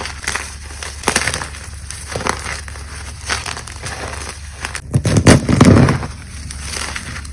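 Gym chalk cubes crunching and crumbling as they are crushed, in crisp crackles about once a second, with a louder, deeper crunch about five seconds in.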